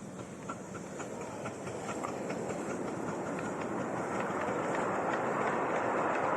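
Steam-hauled train approaching and getting steadily louder, with a regular ticking of wheels over the rail joints.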